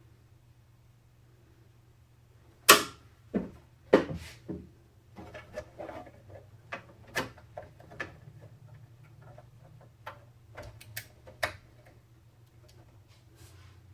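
Sharp clicks and knocks of computer parts being handled during a PC build: four louder knocks close together about three to four and a half seconds in, then a scatter of lighter clicks, over a low steady hum.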